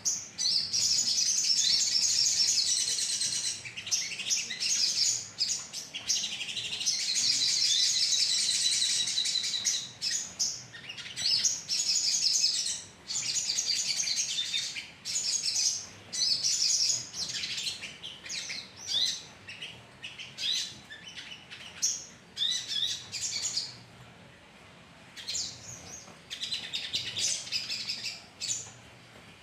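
A flock of small songbirds, sogon birds, chirping and trilling together in rapid, high-pitched strings. The chorus is nearly continuous for the first ten seconds, then breaks into separate bursts with a short lull near the end; it serves as a lure call to set caged birds singing.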